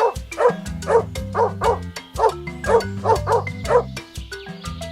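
Background music with a steady beat, over which a dog barks about ten short times, mostly in quick pairs, stopping about a second before the end.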